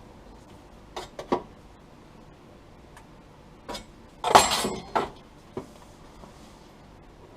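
Scattered light metallic clicks and knocks from tools and steel parts being handled, with a louder brief clatter a little past four seconds in.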